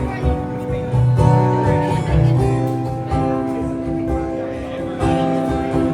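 A band playing a song: strummed acoustic guitar over bass and a steady beat, with held melody notes that change about once a second.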